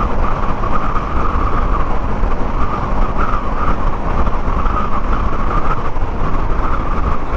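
Motorcycle riding at highway speed: a steady rush of wind on the microphone over engine and road noise.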